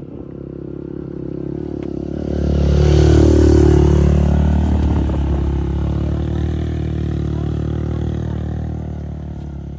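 Motorcycle engine passing close by: it grows louder, is loudest about three seconds in, then fades slowly as it moves away.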